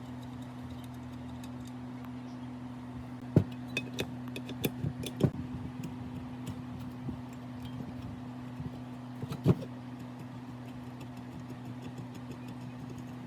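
Steady low electrical hum with scattered sharp metallic clinks and knocks of tools or parts being handled. There is a quick run of clinks about a third of the way in and two more, the loudest, about two-thirds in.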